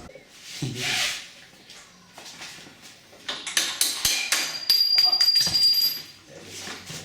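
Metal clattering: a quick run of clinks and rattles in the second half, with a thin high ringing tone held for about a second.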